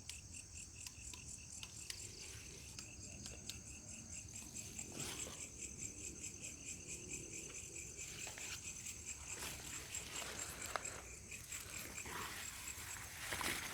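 Night insects, crickets, calling: a steady high trill with an evenly pulsing chirp beneath it. A few brief scuffs break in now and then.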